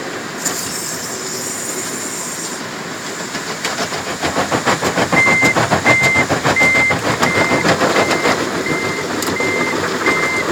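Automatic car wash heard from inside the car: soap spraying onto the car with a hiss, then a fast, growing drumming of water and wash equipment on the car body. From about five seconds in, an electronic beep repeats steadily, about three every two seconds.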